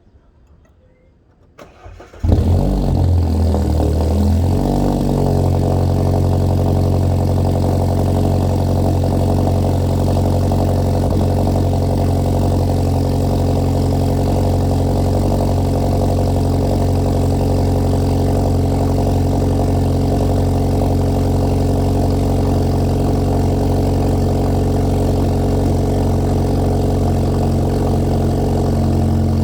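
BMW 116i (F20) 1.6-litre turbocharged four-cylinder heard at the exhaust during a cold start: a brief crank about two seconds in, the engine catches with a rev flare, then it settles within a few seconds into a steady cold idle.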